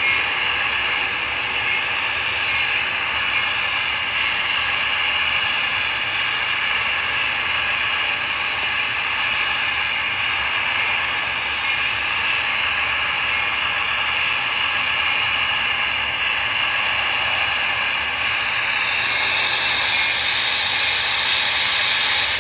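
O gauge model train running along the track: a steady motor whine and wheel rumble.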